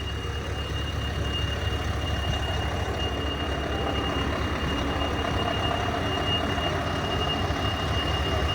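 Scania 660 V8 truck engine running at low revs through an aftermarket exhaust diffuser, a steady deep rumble that grows slightly louder as it goes. A thin, steady high-pitched tone sounds throughout.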